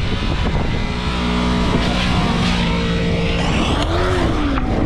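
Motorcycle engine running under way at a steady note over a steady rush of noise, its pitch briefly rising then falling near the end.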